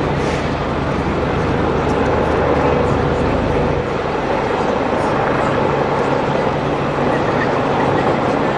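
An engine running steadily with a low, even hum under a continuous wash of noise.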